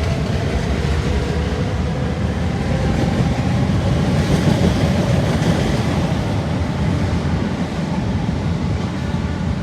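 Rumble of an electric train running along the tracks, a steady low noise that swells around the middle, with a faint whine early on.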